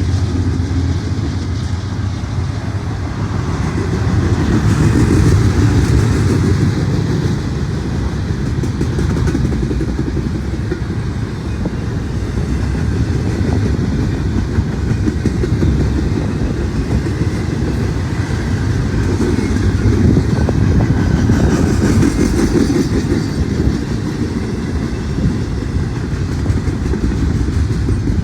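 Norfolk Southern intermodal freight train rolling past, a steady, loud rumble of steel wheels on the rails.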